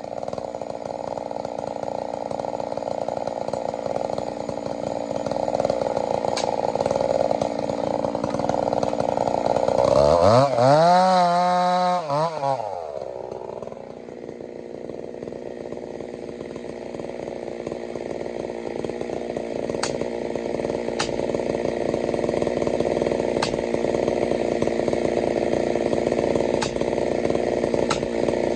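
Chainsaw with a 32-inch bar running under load in a cut. About ten seconds in it revs up high and clear for a couple of seconds, then drops back and settles into cutting again.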